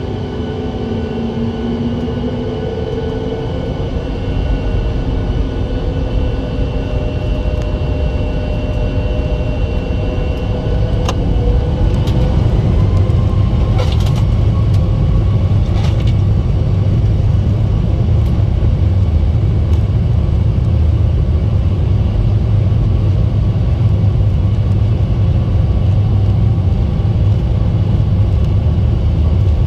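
The CFM LEAP-1B engines of a Boeing 737 MAX 8 at takeoff power, heard inside the cabin: whining fan tones climb slightly as the engines spool up, while a deep rumble of the takeoff roll grows louder for about twelve seconds and then holds steady. A few sharp knocks come about halfway through.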